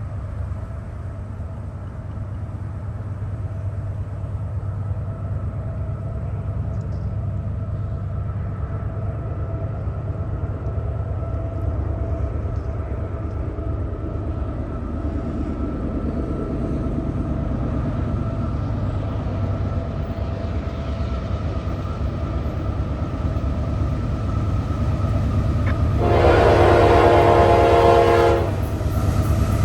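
Approaching train, its low rumble slowly growing louder, with a locomotive horn blast of about two seconds near the end.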